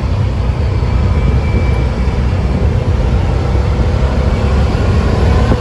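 Yamaha Wolverine side-by-side running steadily while driving, a continuous low engine and road rumble.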